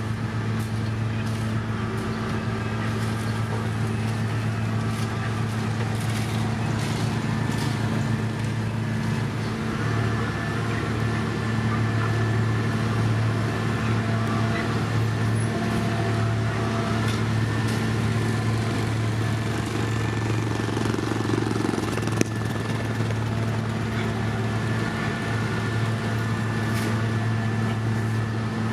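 Heavy diesel road-construction machinery running steadily at constant engine speed, with a faint high whine over the deep engine hum.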